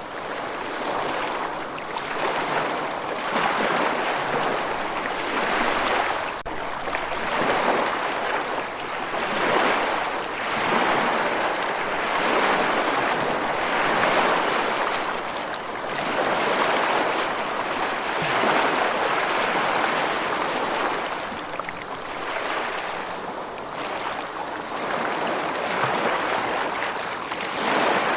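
Steady rushing water, swelling and easing every few seconds.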